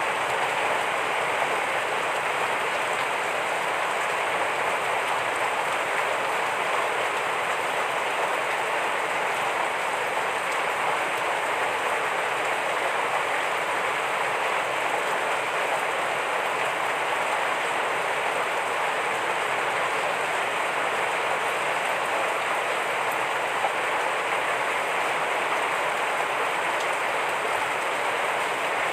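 Heavy rain falling steadily, a dense, even hiss with no breaks or distinct drops standing out.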